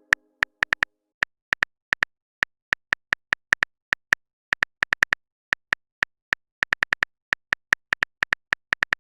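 Typing sound effect: a long run of short, sharp clicks at an uneven pace, about four or five a second, with silence between them.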